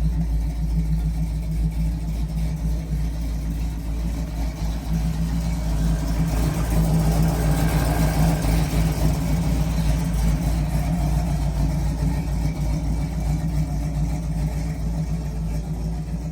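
A 1932 Ford 3-window coupe hot rod's 425 Buick Nailhead V8 running with a steady low rumble, growing louder for a few seconds around the middle.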